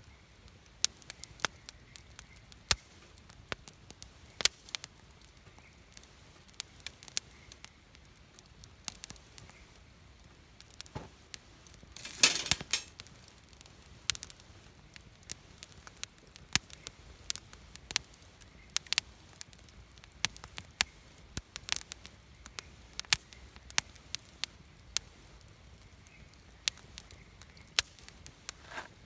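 Wood campfire crackling, with irregular sharp pops and one louder burst of crackles about twelve seconds in.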